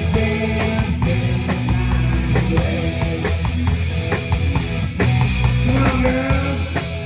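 A live rock band playing an instrumental passage: guitar lines with bent notes over bass and a drum kit, with no vocals.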